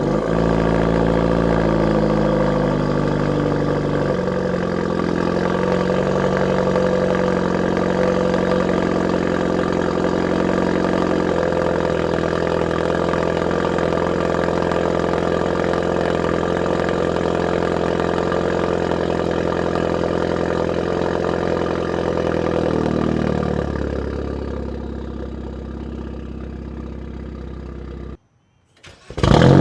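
Hyundai Veloster N's turbocharged inline-four at a cold start, made loud by a high-flow catted downpipe and Borla Attack exhaust. It holds a high cold idle that steps down a few times and settles lower and quieter about 23 seconds in, then cuts off suddenly near the end.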